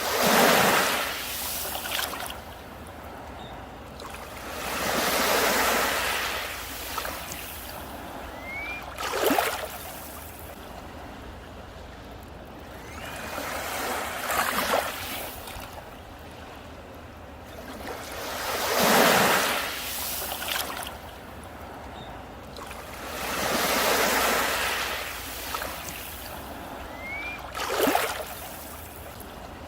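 Sea waves breaking on a beach and washing back, a surge about every four to five seconds over a steady wash, two of them crashing more sharply.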